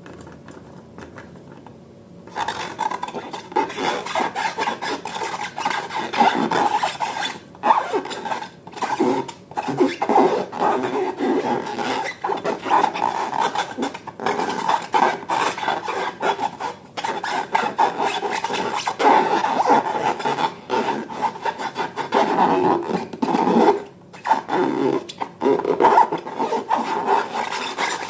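Continuous rubbing and rasping of hands working rubber balloons and slime, starting about two seconds in, full of small crackles.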